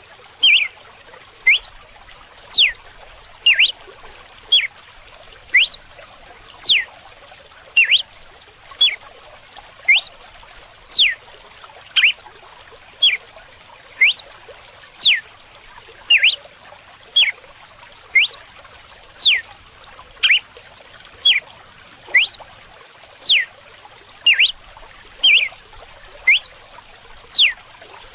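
Red-cowled cardinal singing its 'açoite' (whip) song: sharp whistled notes sweeping down from high to low pitch alternate with short notes, about one a second. Steady running water plays underneath.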